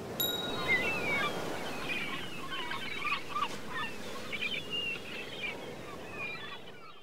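Many birds calling in quick, short chirps and squawks over a faint hiss, with a thin high tone for about the first second; it all fades out near the end.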